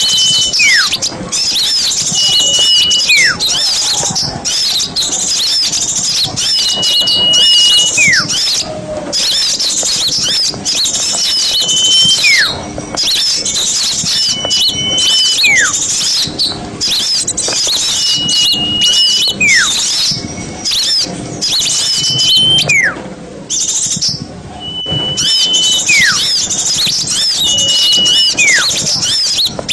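Dense, busy chattering of many small birds, a bird-lure recording for calling in forest birds. A clear whistle recurs every few seconds through it: a held note that breaks into a quick falling slide.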